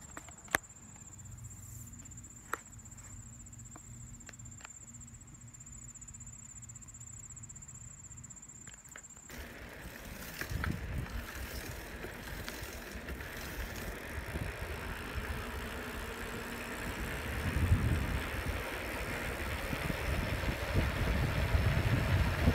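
A steady high insect trill with two sharp clicks, then about nine seconds in a cut to bicycle riding: wind buffeting the microphone over the rolling bike, growing louder toward the end.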